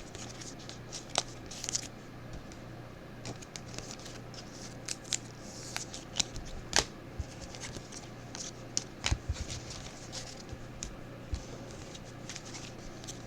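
Mosaic football trading cards being handled and flipped through by hand: card stock sliding and rustling, with many short, sharp clicks and snaps scattered irregularly, over a faint steady low hum.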